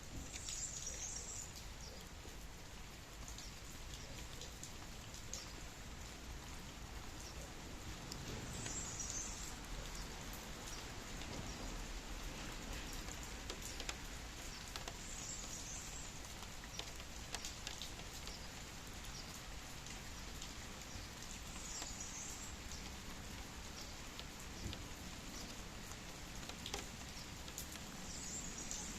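Steady rain with individual drops pattering. A short high chirp comes back about every six to seven seconds, five times in all.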